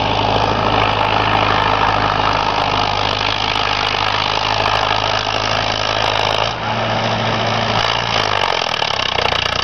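Preet tractor's diesel engine running steadily, its note shifting about six and a half seconds in.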